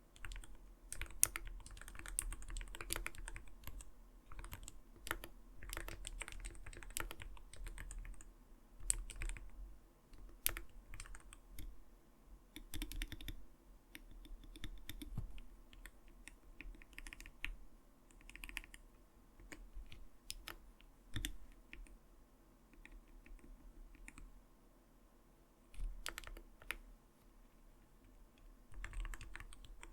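Typing on an Arbiter Studio Polar 65 mechanical keyboard: runs of soft, clacky "kotokoto" keystrokes in an uneven rhythm. The typing thins out in the second half, pauses for a few seconds, then resumes near the end.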